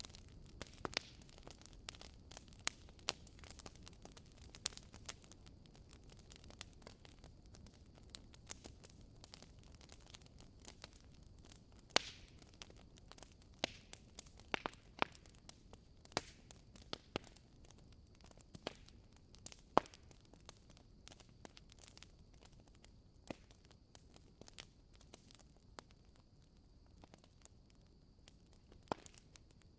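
Wood fire in a fireplace crackling, with irregular sharp pops from the burning logs and a few louder single snaps over a low steady rumble of the flames.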